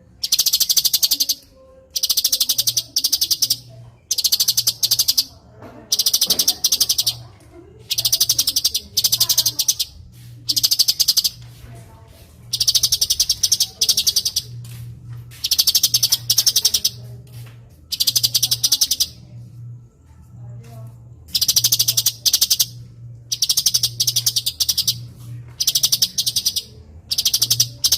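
Cucak cungkok bird calling in harsh, rapid trilled bursts of about a second each, repeated every second or two, over a faint low hum.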